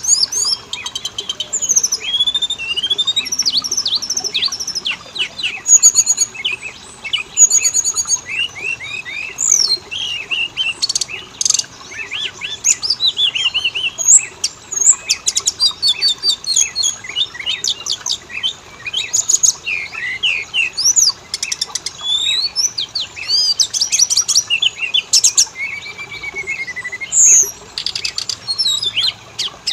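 Oriental magpie-robin song: a loud, continuous stream of varied whistles, chirps, slurred notes and rapid trills with barely a pause.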